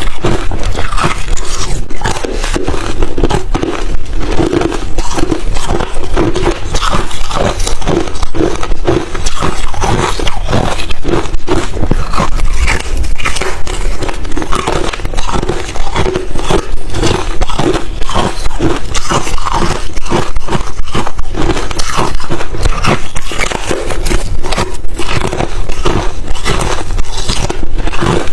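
Crushed, refrozen ice chips being bitten and chewed close to the microphone: a dense run of rapid, crackling crunches.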